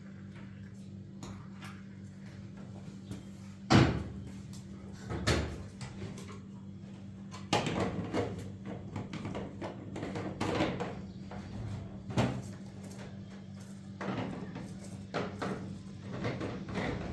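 A series of irregular knocks and bangs, the loudest a sharp one about four seconds in, over a steady low hum.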